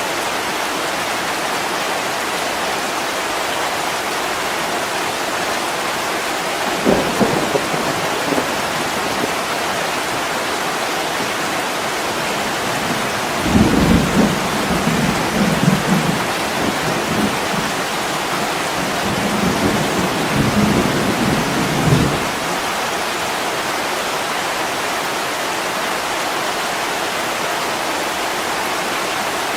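Steady heavy rain with thunder: a short rumble about a quarter of the way in, then a longer, louder rumble from about halfway through that dies away about three quarters of the way in.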